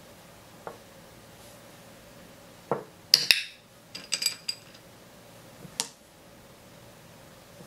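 Small hard objects knocking and clinking on a tabletop: a few sharp knocks, then a quick run of bright, ringing clinks, and one last click near the end.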